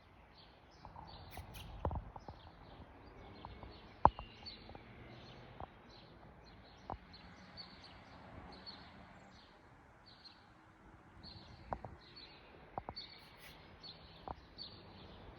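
Small birds chirping, short high calls repeating every second or so. A few sharp clicks or knocks break in, the loudest about four seconds in.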